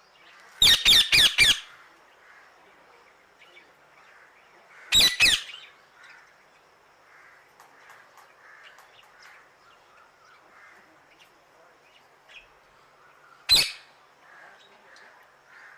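Birds giving loud harsh squawks in three bouts: four quick squawks in a row about half a second in, two more around five seconds, and a single squawk near the end, with faint soft chirps between.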